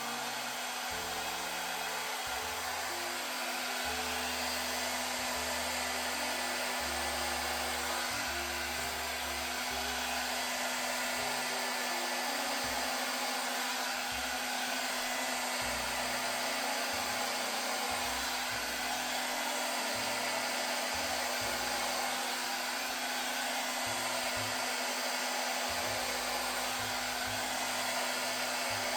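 Handheld hot-air blower running steadily: a continuous rush of air over a constant motor hum.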